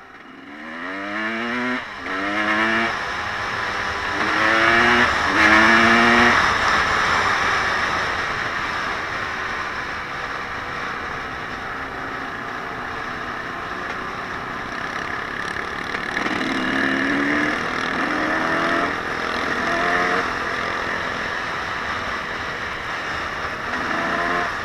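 Off-road vehicle engine accelerating hard through the gears, its pitch climbing and then dropping at each shift, in two runs of revving near the start and more in the second half.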